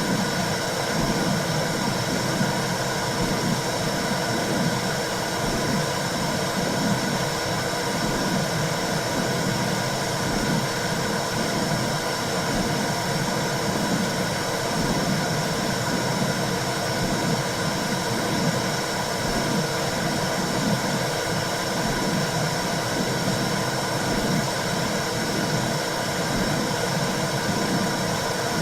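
Womb sound for soothing a baby: a steady whooshing noise with a low rumble that surges and fades unevenly, over a faint steady hum.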